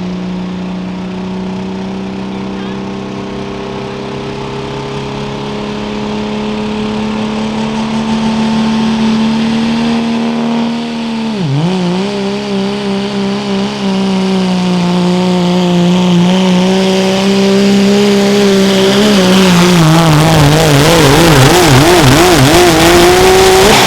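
A turbocharged diesel pickup's engine at full throttle, pulling a weight-transfer sled down the track. The note climbs slowly and gets louder, drops sharply for a moment about halfway and recovers, wavers in pitch during the last few seconds, then falls away as the driver gets off the throttle at the end.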